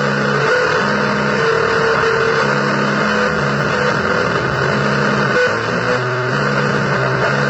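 Heavily distorted electric guitar playing a noise-blues drone: held low notes that change every second or so over a dense, gritty wash of noise.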